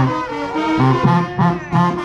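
Live Junkanoo band playing, horns carrying the tune over a repeating low bass line in a steady rhythm.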